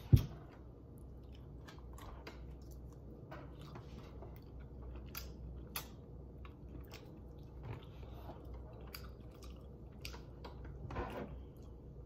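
A person chewing chicken with scattered mouth clicks and smacks. There is a sharp thump just after the start and a louder burst of chewing noise near the end.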